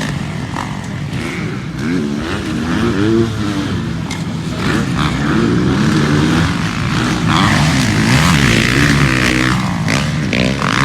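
Several motocross bikes' engines revving up and down as they race past, their overlapping pitches rising and falling with each gear change and throttle blip; louder from about six seconds in.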